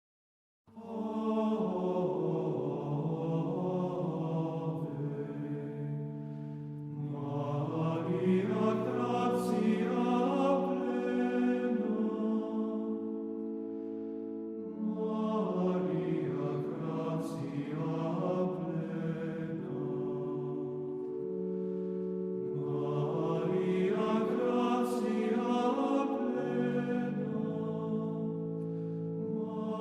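Slow choral chant music with long held notes in chords, coming in just under a second in and moving in long swelling phrases.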